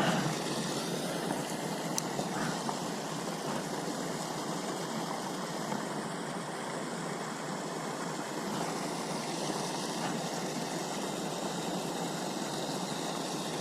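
Steady rushing background noise, even throughout, with one faint click about two seconds in.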